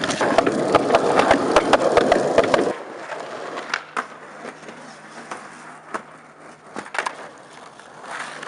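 Skateboard wheels rolling over rough pavement, a gritty rumble with many sharp clicks and clatters. It cuts off abruptly about two and a half seconds in. After that there are only a few isolated clicks and taps.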